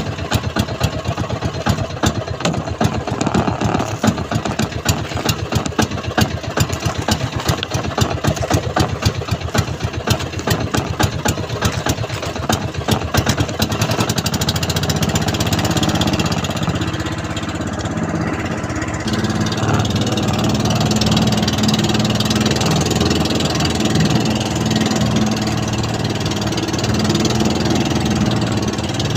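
Small fishing boat's engine running: a rapid, even knocking beat for the first half, which turns into a smoother, steadier engine sound about halfway through.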